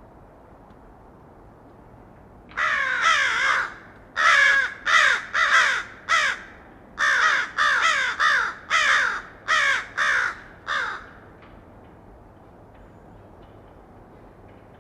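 A bird calling about a dozen times in quick groups, each call falling in pitch, starting a couple of seconds in and stopping about eleven seconds in.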